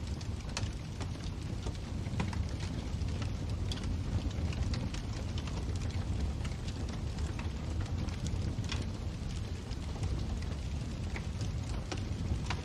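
Wood fire burning in a fireplace: a steady low rumble with scattered crackles and pops.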